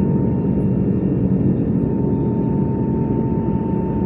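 Steady cabin noise of an Airbus A321neo in flight: engine and airflow rumble, with a thin, constant hum running over it.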